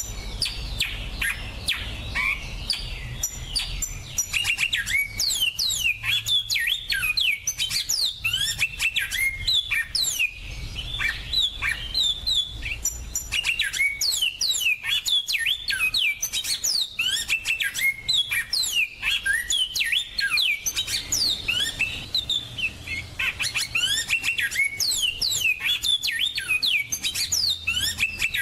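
Finches singing: a dense, continuous run of fast chirps, trills and quick sweeping notes, several voices overlapping.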